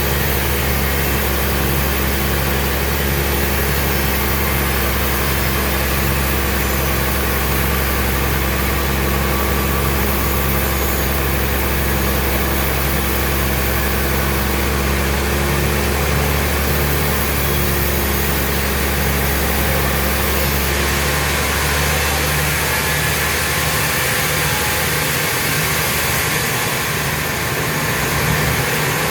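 Sawmill machinery running steadily: a low engine-like drone with a pulsing lower tone over a broad hiss. The deepest part of the hum drops away about two-thirds of the way through.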